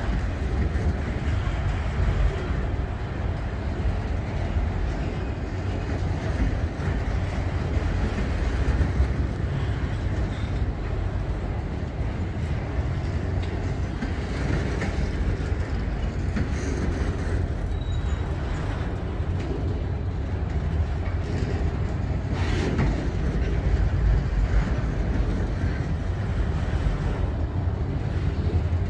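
Freight train of autorack cars rolling past on the rails: a steady rolling noise of steel wheels on the track, heaviest in the low end.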